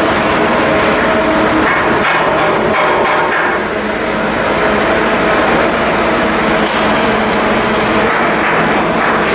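Heavy machinery running steadily, a loud dense rumble with a low hum through it.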